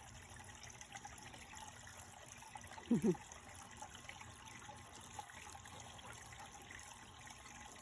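Faint steady trickle of water, with a short falling voice-like sound about three seconds in.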